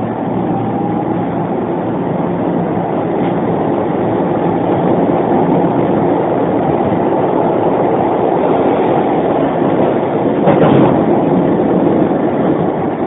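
Running sound inside a Keisei 3500-series renewed motor car as it gathers speed: a faint rising motor whine that fades about a second in, then a steady wheel-and-rail rumble that grows slightly louder, with a louder clatter about ten and a half seconds in.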